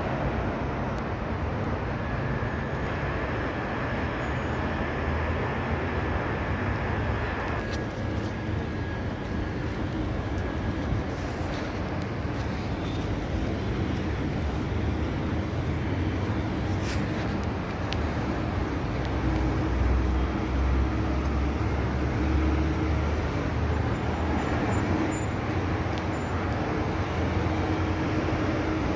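Steady rumble of a Doha Metro train running, with a thin high whine over it for the first several seconds.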